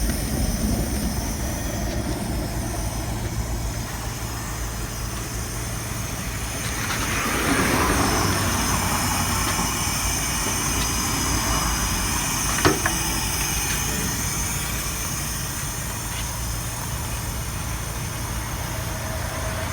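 Vehicle engine idling, a steady low hum, with a swell of hissing noise about seven to nine seconds in and a single sharp knock about twelve and a half seconds in.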